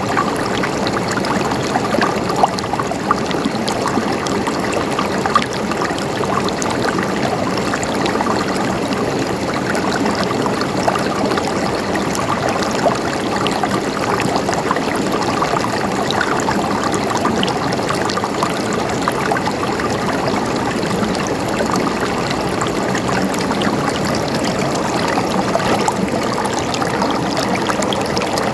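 Stream water flowing and gurgling steadily, with a few brief splashes standing out early on and around the middle.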